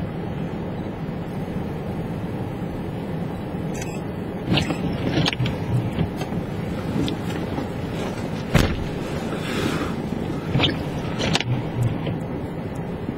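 Car driving on a snowy road, heard from inside the cabin: a steady low rumble of engine and tyres, with a few scattered knocks and clicks.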